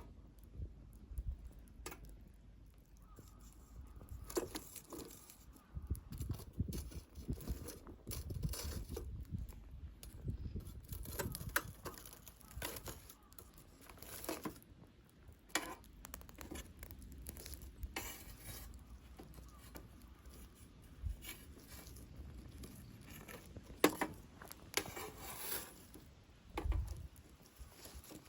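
Campfire of dry deadwood burning, crackling with irregular sharp pops and snaps over a low rumble of flame.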